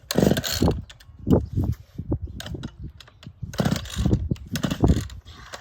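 Recoil starter cord of a McCulloch Mini-Mac 110 two-stroke chainsaw being yanked several times in quick short pulls on a cold start with the choke on; the engine does not catch.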